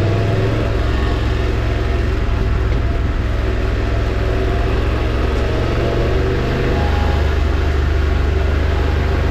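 Motorcycle engine running steadily while riding, over a steady rushing noise; the engine note drops a little about seven seconds in.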